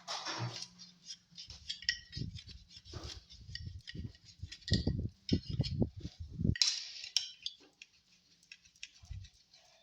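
Hands working on a speaker box and subwoofer: a string of dull knocks, loudest about five to six and a half seconds in, with scraping and light clinks of parts and tools being handled.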